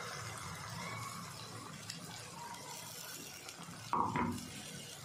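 Onions, green chillies and freshly added ground tomato paste sizzling gently in hot oil in a frying pan, a steady, soft frying hiss. A brief louder knock or clink comes about four seconds in.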